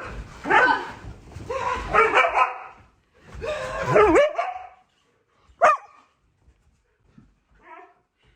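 A dog barking: three drawn-out calls that bend in pitch, then a short sharp bark about five and a half seconds in, and a faint call near the end.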